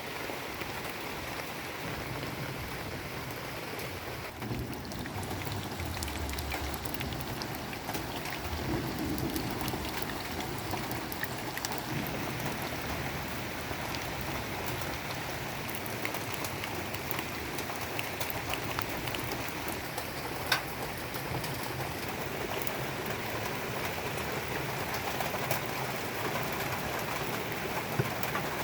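Heavy rain pouring steadily, with many drops ticking on surfaces close by. A low rumble swells about five seconds in, and a single sharp tap stands out about twenty seconds in.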